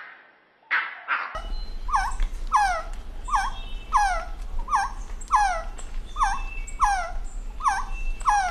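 An animal calling: a few short calls, then a run of repeated short calls that each fall in pitch, about one every two-thirds of a second, over a low steady hum.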